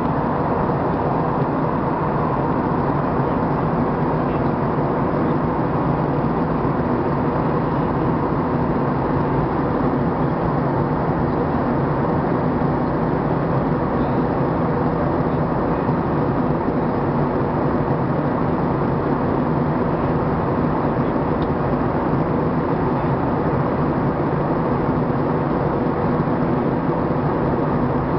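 A vehicle running steadily, a constant drone of engine and road noise that does not change in pitch.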